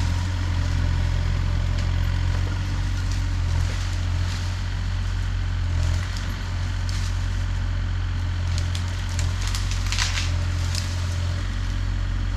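A heavy machine's engine running steadily, with wood and brush cracking and splintering several times in the middle and later part, as the machine clears the ground.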